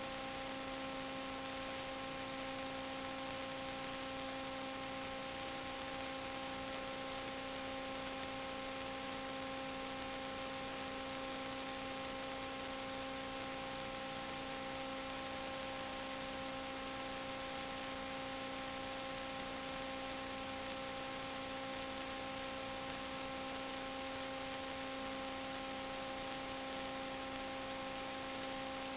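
Steady electrical hum made of several fixed tones over an even hiss, unchanging throughout, with no other sound.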